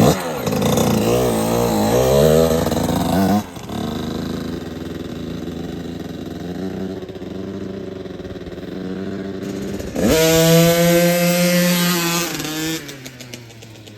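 Dirt bike engine revving, its pitch rising and falling for a few seconds, then running lower and steadier. About ten seconds in it revs up to a loud, held high pitch and then eases off near the end.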